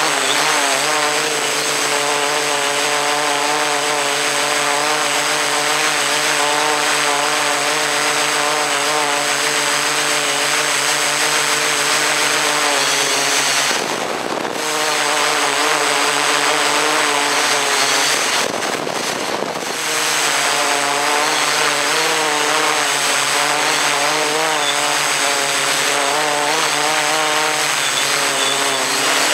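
Drone motors and propellers running with a steady, slightly wavering hum over a hiss of rushing air. The sound drops out briefly about halfway through and again a few seconds later.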